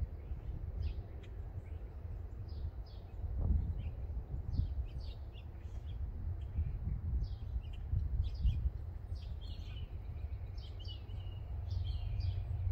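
Small birds chirping over and over, busier in the second half, above an uneven low rumble.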